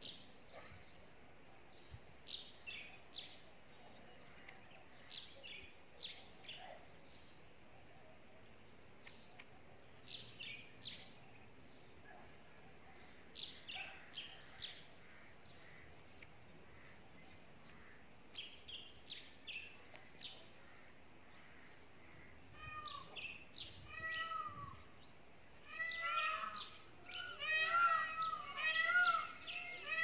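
Small birds, white-eared bulbuls and sparrows, calling. Short sharp high chirps come in small clusters every few seconds, then about three-quarters of the way in a louder, busier run of repeated arching calls begins.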